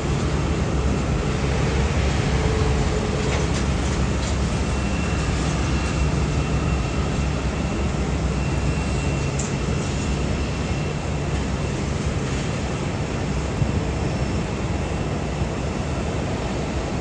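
Steady, loud rumble of a large vehicle, with a faint high whine for a few seconds in the middle.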